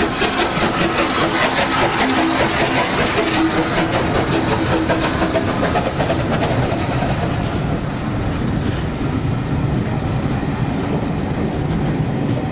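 Steam locomotive working a train past, its rapid exhaust beats and hiss dense at first; after about eight seconds the high hiss fades, leaving a lower rumble of wheels and carriages.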